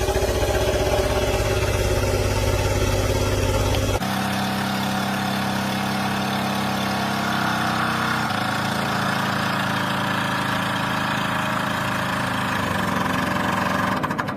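An engine running steadily, with sudden shifts in pitch and tone about four and eight seconds in, as if from cuts between separate clips.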